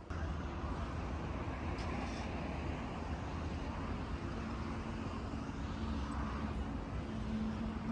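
Road traffic noise: motor vehicles running, a steady rumble with a low engine hum that grows a little stronger near the end.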